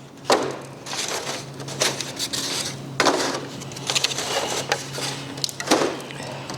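Thin plastic seedling flats being handled and stacked, crinkling and clattering, with three sharper plastic knocks about two and a half seconds apart as flats are set down on the stack.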